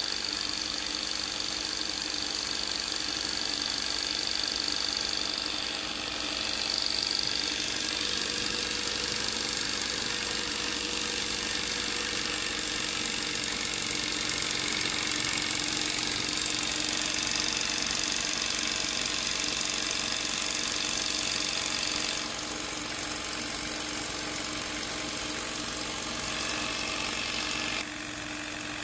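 Jensen 20-S live-steam toy engine running fast under steam and turning its small generator: a steady, rapid mechanical running sound with steam hiss. The level dips slightly about 22 seconds in and again near the end.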